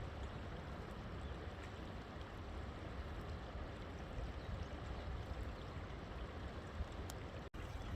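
Steady rush of a flowing river, with a low rumble under the water noise. The sound drops out for an instant near the end.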